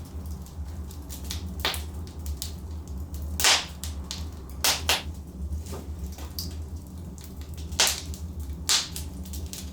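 Logs burning in a fireplace: a steady low rumble of the fire under a constant scatter of small crackles, with about half a dozen louder sharp pops.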